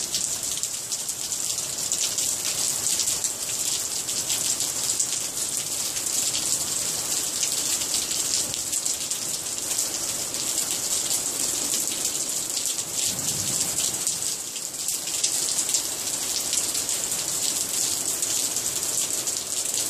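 Steady rain falling: a dense, even hiss of fine drops pattering close by.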